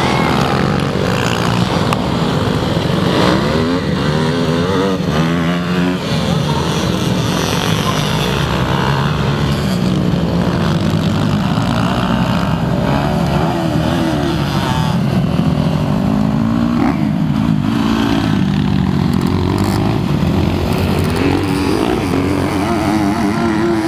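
Several motocross bikes running on a dirt track, their engines revving up and down, overlapping one another.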